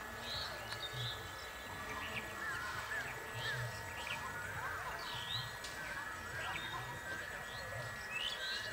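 Birds chirping in short, repeated calls over the low murmur of a crowd of people, with a faint steady high hum.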